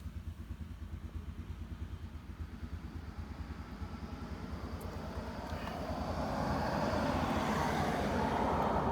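MV Agusta Brutale 1090 RR's 1078 cc inline-four idling with a steady low pulse. A vehicle passes from about halfway through, loudest near the end.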